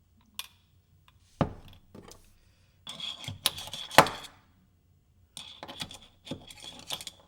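Small metal wheel parts being handled during assembly: a run of clinks, rattles and knocks with a thin metallic ring, in three bursts, the sharpest knock about four seconds in.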